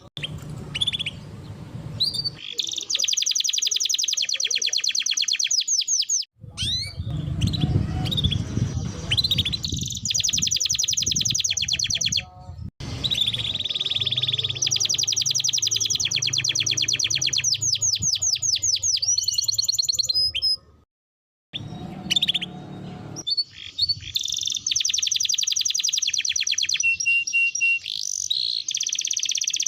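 Domestic canary singing long, fast trills and rolls, one rapid run of notes after another. The song pauses briefly several times and breaks off for about a second about two-thirds of the way through.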